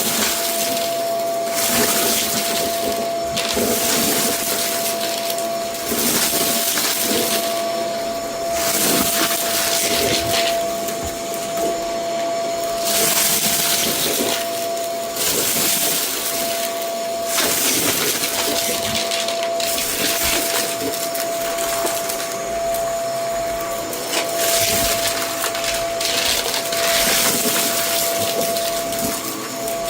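Vacuum cleaner running in strokes over a rug: a steady high motor whine under a rushing hiss that swells and fades every couple of seconds.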